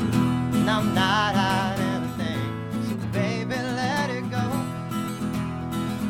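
Strummed acoustic guitar music, with a wavering melody line rising above it twice.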